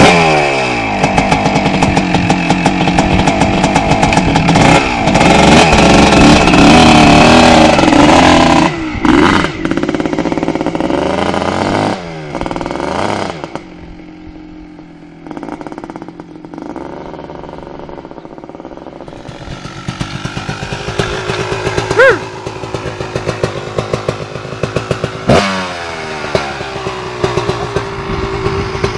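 Kawasaki KX 250 dirt bike engine revving hard and accelerating, its pitch climbing and dropping as the throttle opens and closes. It eases off to a quieter stretch about halfway through, then revs up again.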